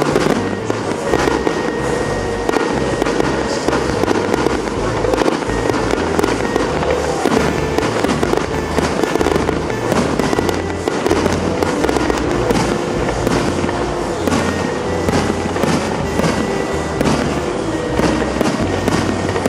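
Aerial fireworks display, with shells exploding in quick succession. Many sharp bangs run throughout, over music with a steady bass line.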